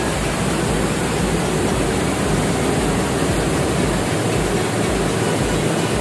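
Waterfall: fast river water cascading down over rock ledges, a steady, even rush.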